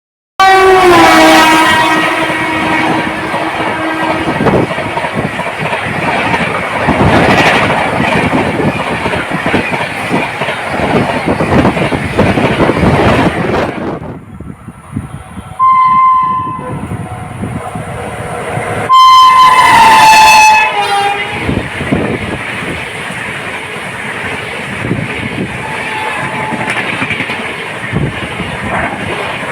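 Indian Railways trains, among them a WAP-7 electric locomotive, passing at high speed with horns sounding. A horn opens the stretch and drops in pitch as the locomotive goes by, followed by the long rush of coaches; after a short lull a horn sounds again near the middle, and another falls in pitch as it passes, before more rushing train noise.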